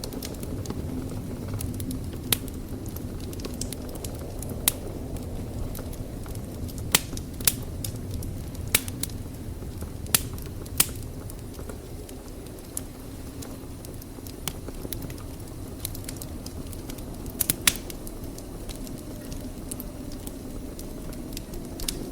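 Wood fire burning in a fireplace: a steady low rumble with irregular sharp crackles and pops, several in quick succession a little past the middle.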